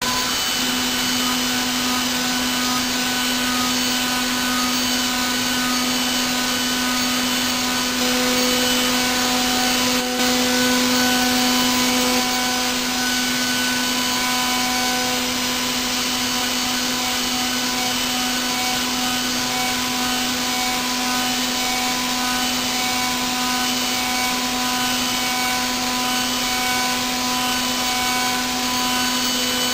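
Milling machine running steadily while a 6 mm cutter slot-mills brass: a constant hum with several higher whining tones over a hiss, a little louder for a few seconds in the middle with a single click.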